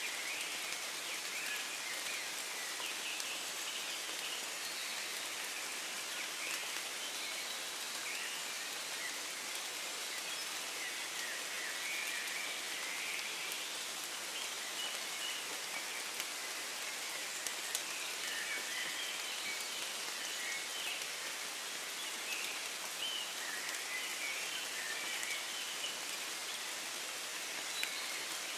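Steady, gentle rain falling in woodland, an even hiss with a few louder drops. Faint dawn-chorus birds chirp now and then through it.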